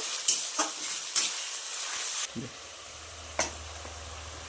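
Onion and garlic-ginger masala frying in hot oil in a kadhai, sizzling while a spatula stirs and scrapes the pan in several strokes. A little over two seconds in, the sizzle cuts off abruptly, leaving a quieter steady low hum and a single tap.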